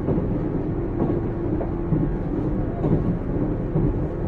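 JR 455 series express-type electric multiple unit running along the line, heard from on board: a steady low rumble of wheels on rail with a steady hum and a few scattered knocks from the track.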